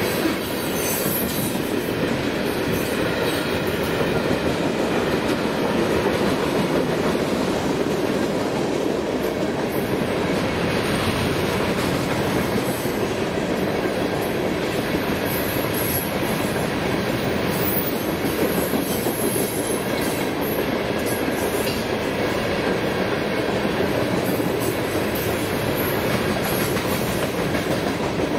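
Loaded freight cars (open-top rock hoppers and gondolas) rolling past at a steady speed: a continuous noise of steel wheels running on the rails, with high wheel squeal coming and going.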